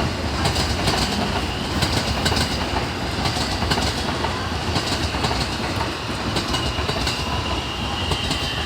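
Steady loud rumbling noise with scattered irregular clicks, like a moving vehicle or train. A thin, steady high whine joins about six and a half seconds in.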